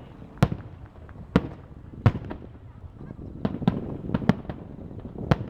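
Fireworks shells bursting overhead: about ten sharp bangs at irregular spacing, with a quick cluster of them around the middle.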